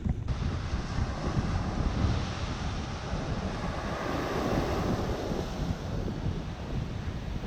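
Sea surf washing ashore in a continuous wash of waves, with wind rumbling on the microphone.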